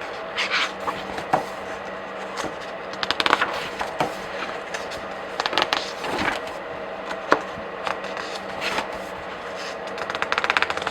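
Paper pages of comic books being flipped by hand: single page turns and rustles, with about three quick runs of pages riffling past in rapid ticks.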